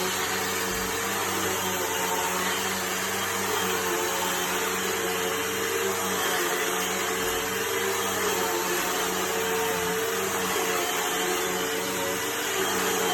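Hoover vacuum cleaner running steadily: a constant motor hum over a wide rush of air. Its suction is working well, pulling dirt into the bin.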